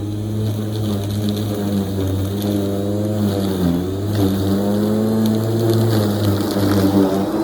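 Lawn mower engine running steadily under load, its pitch dipping briefly about halfway through and again near the end.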